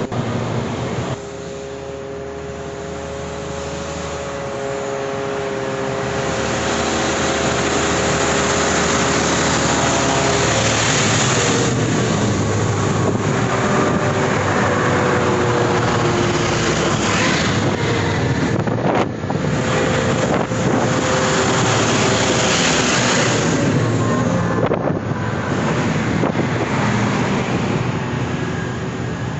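Large mining dump trucks driving past, their diesel engines running under a dense rush of tyre and wind noise, with a steady whine that slowly falls in pitch over the first half. The noise briefly dips twice, about two-thirds of the way through and again a little later.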